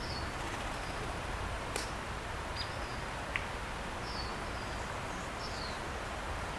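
A few short, high bird chirps, each dropping slightly in pitch, spread across several seconds over steady outdoor background noise.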